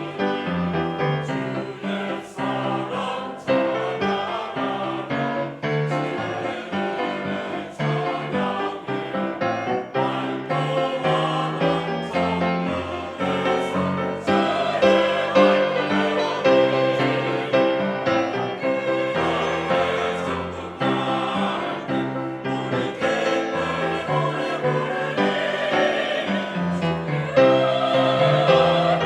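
Church choir singing an anthem in parts with piano accompaniment, rising in loudness in the later bars.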